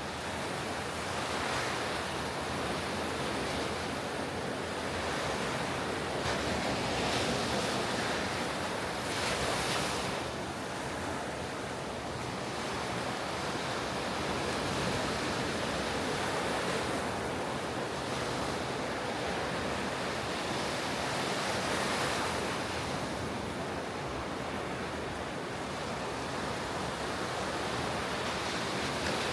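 Ocean surf breaking on a beach: a continuous wash of waves with several swells as waves break and rush in, about a second or two in, around seven and ten seconds in, and twice more later on. Some wind noise on the microphone runs underneath.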